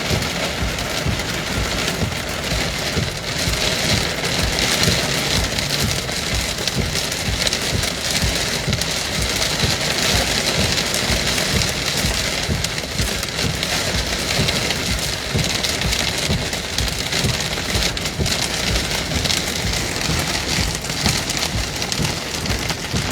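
Heavy rain pouring down steadily during a thunderstorm, with gusting wind rumbling on the microphone.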